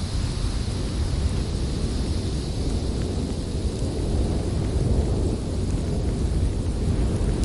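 Strong winter wind blowing in a steady low rumble, with a fainter high hiss that dies away over the first few seconds.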